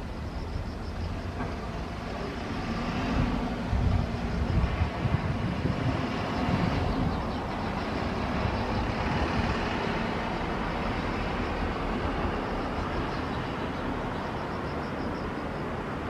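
Jet noise from a Kawasaki C-2 transport's two turbofan engines as the aircraft takes off and climbs away: a steady, deep rumbling rush that swells about three to seven seconds in, then holds.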